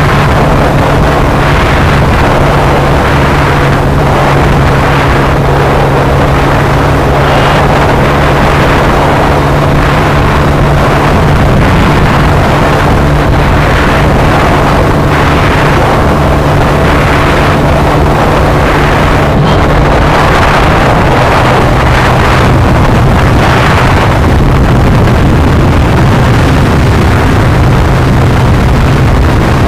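A vehicle engine running steadily under loud rushing wind and road noise. Its hum drops slightly in pitch about two-thirds of the way through.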